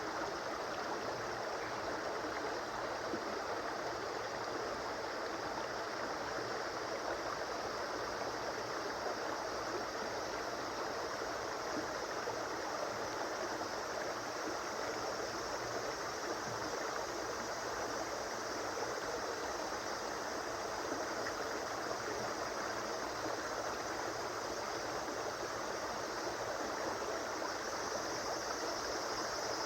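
A flowing stream or river running steadily, an even rushing and gurgling of water.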